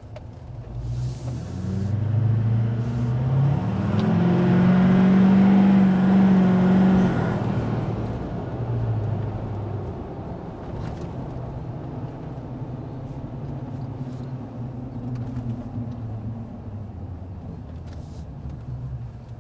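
GMC Duramax 6.6 L V8 turbo-diesel with a muffler-deleted 5-inch straight-pipe exhaust, accelerating. The engine note rises for a few seconds with a faint high turbo whistle at its loudest, then drops off about seven seconds in and settles to a steady cruise.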